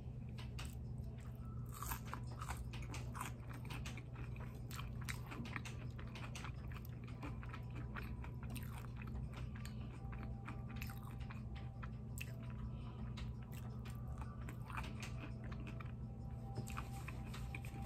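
Close-miked chewing and crunching of curly fries: many small crunches and wet mouth clicks, over a steady low hum.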